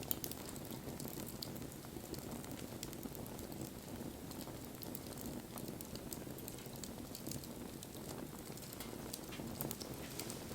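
Wood bonfire burning: a steady low rush of flames with scattered small crackles and pops, one sharper pop right at the start.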